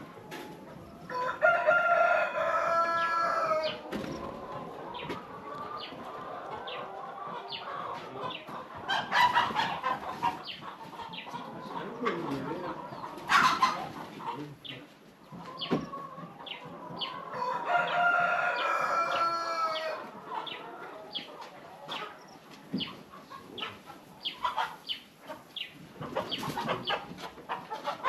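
Chickens on the farm clucking, with a rooster crowing twice, once about a second in and again about halfway through, each crow a long drawn-out call.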